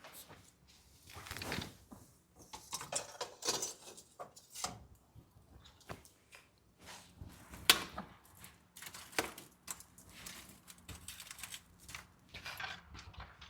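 Objects being handled: irregular clicks, knocks and rustling, with one sharp click about eight seconds in.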